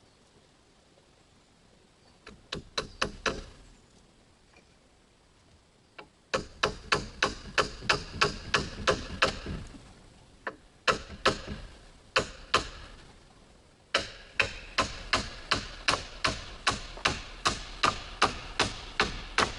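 Hammering: quick, regular blows at about three a second, a short run about two seconds in, then longer runs broken by brief pauses.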